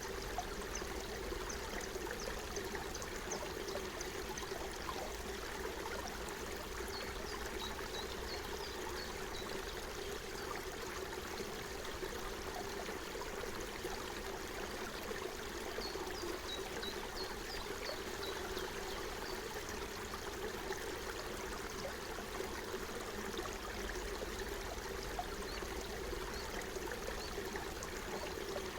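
Forest stream babbling and trickling steadily over stones. Twice, about a quarter of the way in and again just past halfway, a small bird gives a quick series of high chirps.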